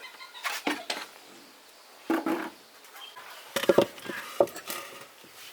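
Metal tools and parts being handled: a few scattered clinks and knocks with short quiet gaps between them, the loudest cluster a little past halfway.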